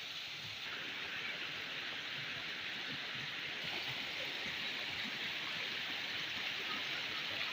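Steady rush of water falling and running at a waterfall, an even hiss with no breaks.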